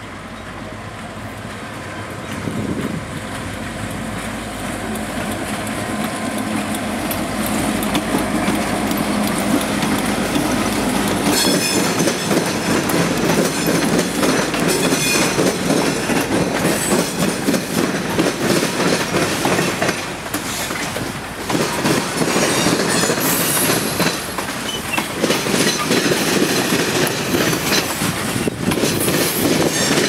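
Canadian Pacific train approaching and passing. The diesel locomotive's low rumble grows louder over the first ten seconds or so, then the cars roll by with a steady clickety-clack of wheels over rail joints and brief squeals of wheel on rail.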